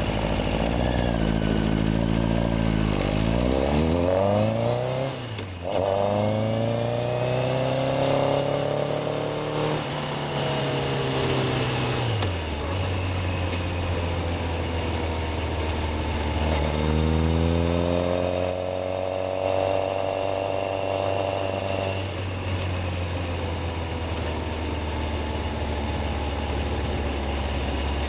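Yamaha XJR1300's air-cooled inline-four engine idling, then pulling away with the revs rising, a short dip at a gear change and more rise before easing back to idle. A second pull-away follows with climbing revs, then it settles back to a steady low idle.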